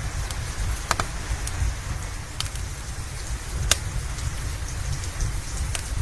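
Steady rain with a low rumble underneath, mixed with a crackling wood fire: a handful of sharp pops, the loudest a little past halfway through.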